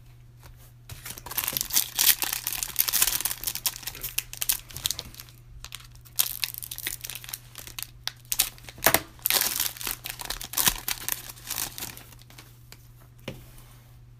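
Foil wrapper of a Panini Prizm card pack crinkling and tearing as it is opened, in two stretches of crackling with a short pause about five seconds in.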